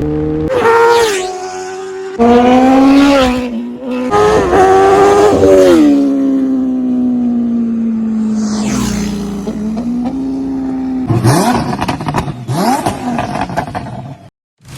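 Superbike engine revving hard several times with rising pitch, then a long slowly falling note and fast pass-bys whose pitch sweeps up and down, cutting off abruptly near the end.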